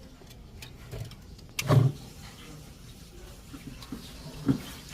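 Work noises from removing a refrigerator's cooling coil: a sharp click about a second and a half in with a short knock right after it, a little low scraping, and another knock near the end.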